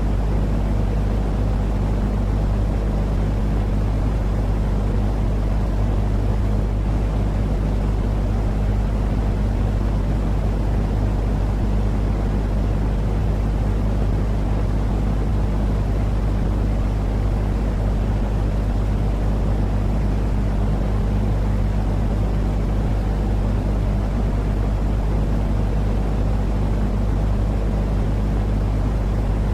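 Continuous sleep-aid 'white noise' for a baby: a steady, unchanging low rumble with a faint steady hum under it, fading toward the high end.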